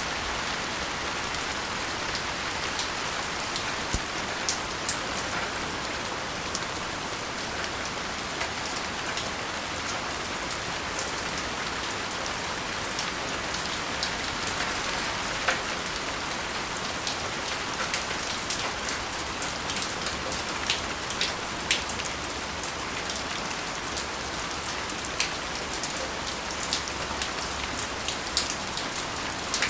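Steady gentle rain, an even hiss with many individual drops ticking sharply on hard surfaces, the ticks growing more frequent in the second half.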